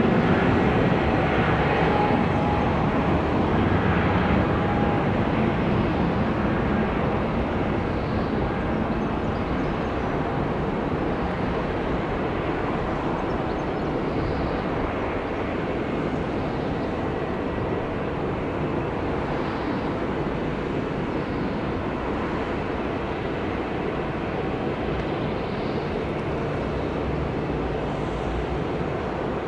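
Jet airliner engine noise, a broad steady rumble slowly fading as the aircraft moves away.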